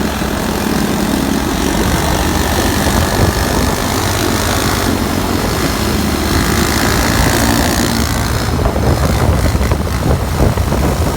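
Vehicle engine running while under way, with a steady rush of wind and road noise and the engine note shifting slightly as the speed changes.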